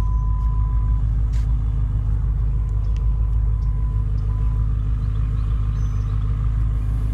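BMW M5's twin-turbo V8 idling: a steady low rumble, with a few faint clicks over it.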